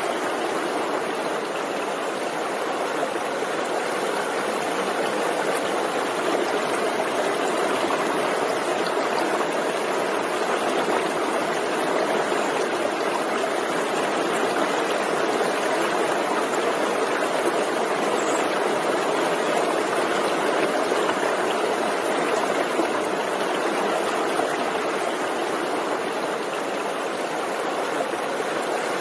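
Forest stream flowing: steady rushing and babbling of water over rocks.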